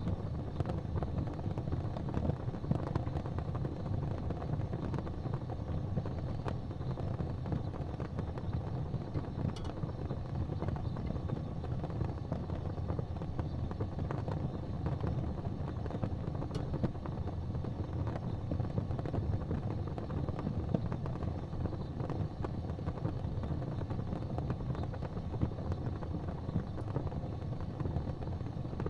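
Wood fire burning in a fireplace: a steady low roar of flames with a few faint crackles.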